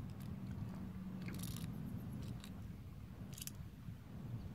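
Faint handling noise: a few short clicks and scrapes over a low, steady background hum.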